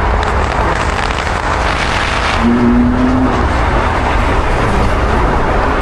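Loud, steady car engine and road noise with a deep rumble, and a brief steady tone about two and a half seconds in.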